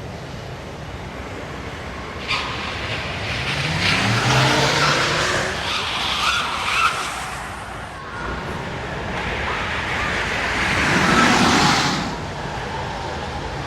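Electric car accelerating hard on a test track, with a synthetic engine note that rises in pitch and tyres squealing. It comes through loudly twice, once a few seconds in and again near the end.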